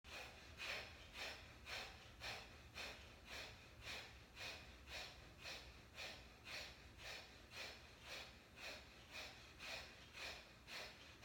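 Kapalbhati (breath of fire) breathing: short, forceful exhales pushed out through the nose, about two a second in an even rhythm, with quiet natural inhales between them.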